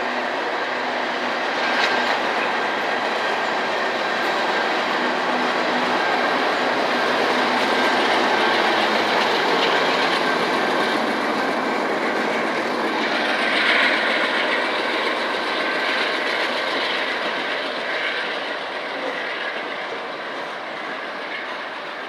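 Freight train rolling past, its cars making a steady rumble and rail noise with a thin high wheel tone. It is louder twice and eases off near the end.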